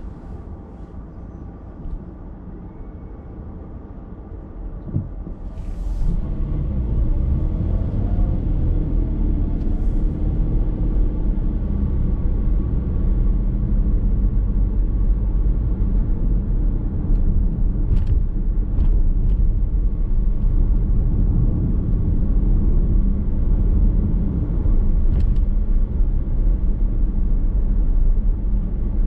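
Car driving sound heard from inside the cabin: a steady low road and tyre rumble with engine hum. It is quieter for the first few seconds and grows louder about six seconds in as the car picks up speed, with a few faint ticks later on.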